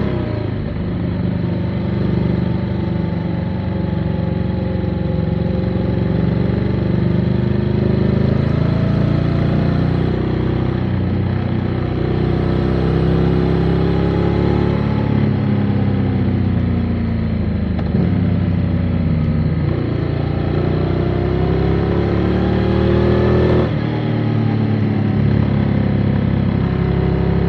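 Motorcycle engine under way, revs rising and falling with throttle and gear changes. The revs dip briefly about 18 seconds in, climb steadily for several seconds, then drop sharply a few seconds before the end.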